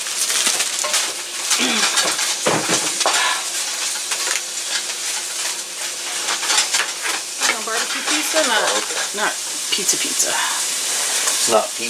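Steady sizzle of shredded chicken frying in a skillet, with sharp taps of a knife on a plastic cutting board as an onion is chopped in the later part.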